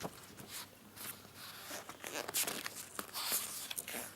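Soft rustling and handling noises in short irregular bursts with scattered light clicks: paper or props being handled, such as a book page being turned.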